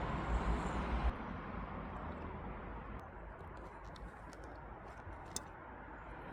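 Faint steady outdoor background noise of distant road traffic, with a low rumble that drops away about a second in and a few faint clicks near the middle.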